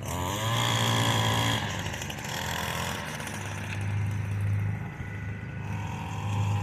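Echo SRM 225 two-stroke string trimmer revving, its pitch rising at first and dropping away after about a second and a half, over the steady running of a Craftsman riding mower's engine. A higher engine note comes back steady near the end.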